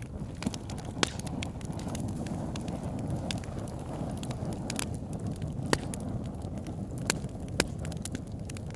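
Wood fire burning: a steady low rumble of flames with scattered crackles and several sharp pops.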